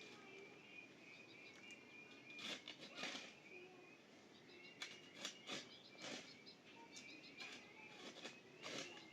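Faint chirping of small birds, many short high notes repeating, with scattered short knocks or scuffs about once a second through the middle of it.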